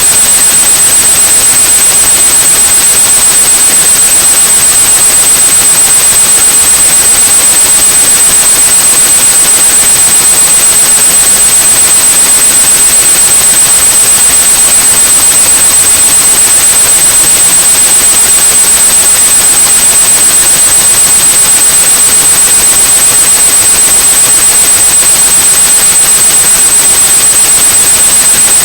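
Synthetic white noise with a steady high-pitched 8100 Hz pure tone over it, loud and unchanging: a tinnitus-masking sound.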